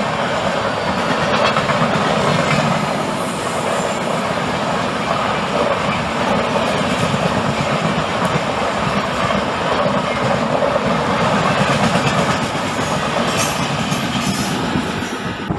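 MEMU electric multiple-unit passenger train running along the track, a steady noise of wheels on rails.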